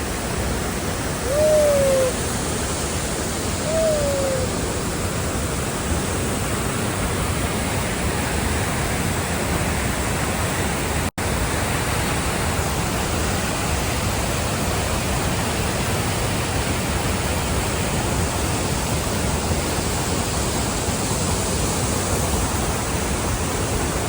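Waterfall pouring heavily close by: a steady, even rush of falling water. Two short falling whoops from a person's voice break in during the first few seconds, and the sound cuts out for an instant about halfway through.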